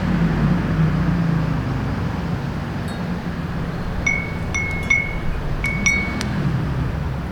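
A small wind chime knocked by the breeze: a faint tinkle about three seconds in, then a cluster of about six light rings on the same bright note about four seconds in. Under it runs a steady hum of city traffic.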